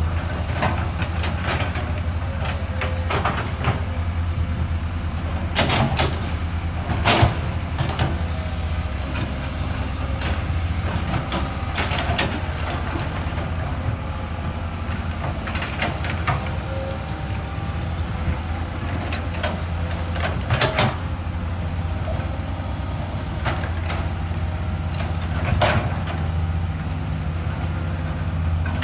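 Excavator engine running steadily, with a sharp knock every few seconds; the loudest comes about seven seconds in.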